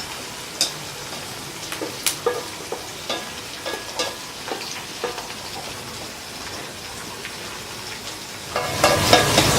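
Crickets frying with garlic in hot oil, a steady sizzle with scattered crackles and pops as they turn nearly crisp, with a spatula stirring and clinking against the pan. The sizzling and stirring grow louder near the end.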